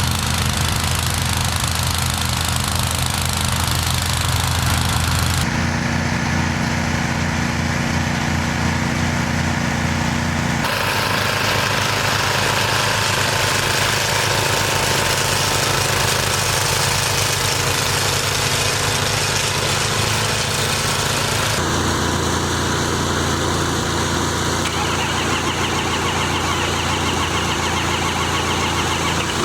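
Old Farmall tractor engine running steadily while moving snow, its tone shifting abruptly about five, eleven and twenty-two seconds in.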